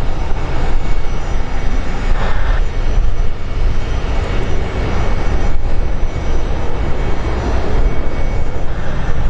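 Airliner engine noise, loud and steady, with a deep rumble underneath.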